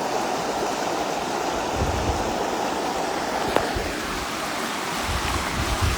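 Waterfall water rushing steadily, with a single sharp click about three and a half seconds in.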